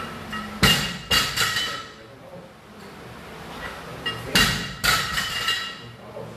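Loaded barbell and weight plates clanking in two bursts of metal knocks, each with a short ringing tail, about half a second and four seconds in.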